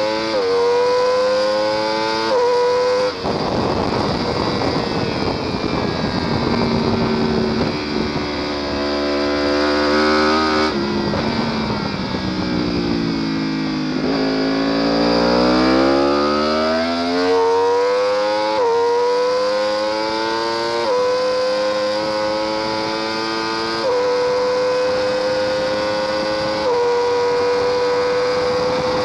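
Sportbike engine heard onboard, pulling through quick upshifts, then engine-braking down through the gears into a slow corner, its pitch lowest about halfway through. It then climbs hard out of the corner with upshifts every two to three seconds. A rushing noise runs under the engine from about three seconds in to about eleven seconds.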